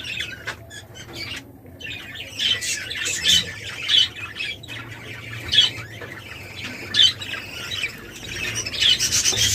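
Budgerigars in a breeding aviary squawking and chattering: a run of short, sharp, shrill calls, with the chatter thickening near the end.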